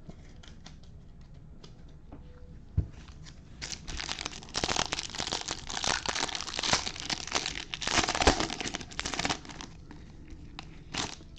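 A baseball card pack's wrapper being torn open and crinkled for about six seconds, after a single knock.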